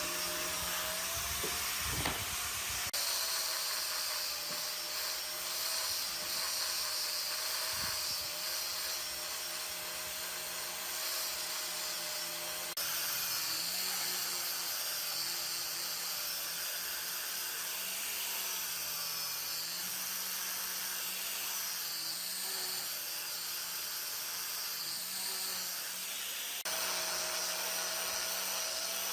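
A power tool's electric motor running steadily under a high hiss, its pitch wavering a little as it works; the sound changes abruptly three times, at about 3, 13 and 27 seconds.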